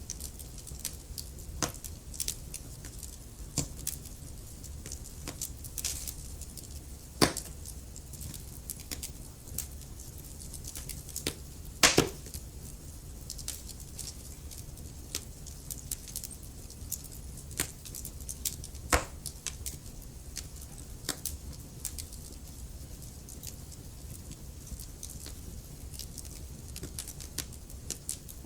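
Wood fire crackling: frequent small sharp snaps and pops over a low steady rumble. A few louder pops stand out, the loudest about twelve seconds in.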